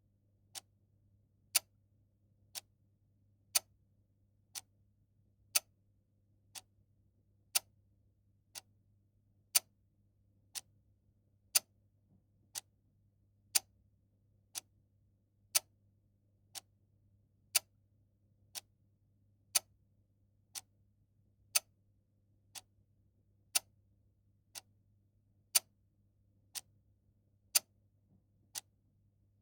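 Clock ticking about once a second in an even tick-tock, louder and softer ticks alternating, over a very faint steady low hum.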